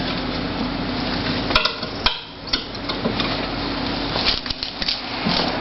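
Knocks and clunks of a hurricane shutter panel being worked into place at the bottom of its frame, over a steady low hum.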